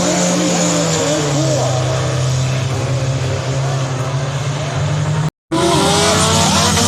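Race car engines running at speed around the track, a steady loud drone with engine pitches rising and falling as cars go through the turns. The sound cuts out completely for a moment about five seconds in.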